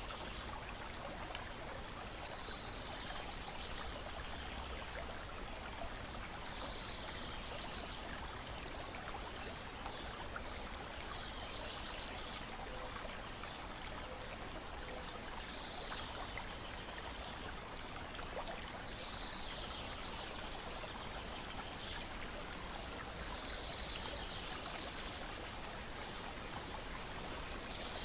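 Lake water gently lapping and splashing in a steady wash, with a bird singing short phrases every few seconds and a few faint crackles from a wood fire.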